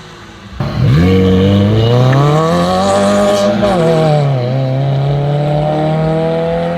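A car engine accelerating hard, its pitch climbing, dropping abruptly about four seconds in as it changes gear, then climbing again through the next gear.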